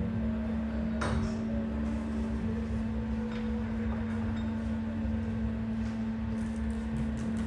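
A steady, even machine hum, with a sharp metallic clink about a second in and a few lighter ticks near the end.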